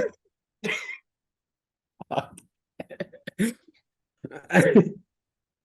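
A man's short non-speech vocal bursts, coming in several separate spurts with the loudest near the end.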